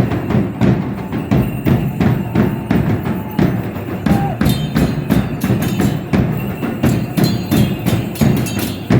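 Drums beating a steady dance rhythm, about two strong beats a second, for a traditional Mexican danza.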